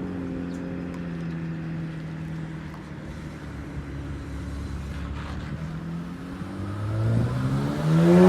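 Car engine running at a distance with its pitch slowly sinking, then from about seven seconds in a car accelerating toward the microphone, engine pitch climbing and growing loud near the end.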